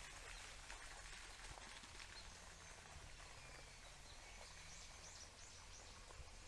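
Faint birdsong over quiet outdoor background noise, with a quick run of short high chirps about five seconds in.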